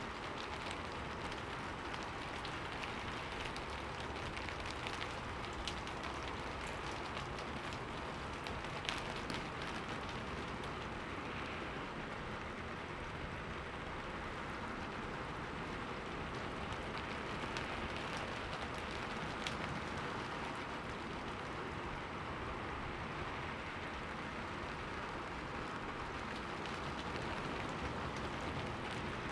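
Steady rain falling on a window, with a few sharper single drop hits standing out, the clearest about nine seconds in and again near twenty seconds.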